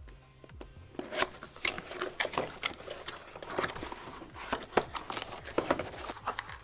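Packaging being handled: a run of short rustles, crinkles and clicks starting about a second in.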